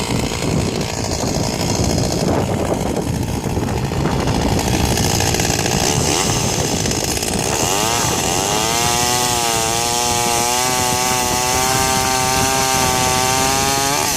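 Two-stroke chainsaw running loudly, with a rough, noisy sound for the first several seconds. About eight seconds in, the engine note rises and then holds at a steady high whine that wavers slightly.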